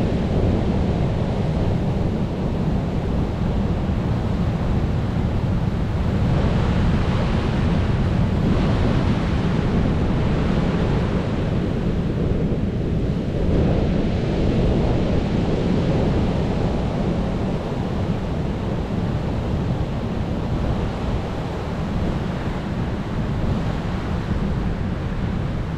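Ocean waves breaking and washing on the shore in a steady rush, with a deep rumble underneath and swells that rise and fall, one stronger surge in the middle. Wind noise on the microphone runs through it.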